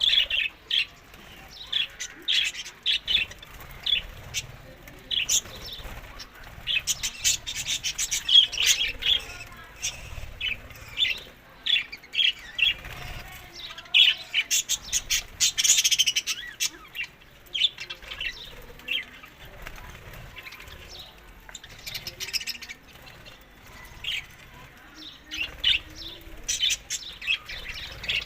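Budgerigars chirping and chattering, many short sharp calls in quick succession.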